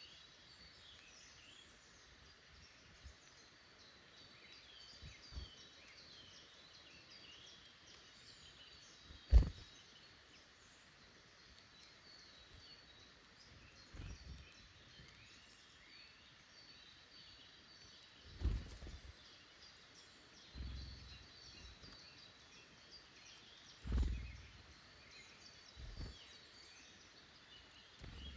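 Small woodland birds chirping and singing through a faint background hiss, with a handful of short low thumps, the loudest about a third of the way in.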